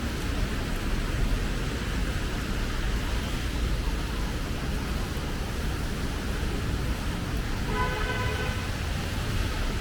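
Steady hiss and hum of traffic on a wet city street. A vehicle horn sounds once, briefly, about eight seconds in.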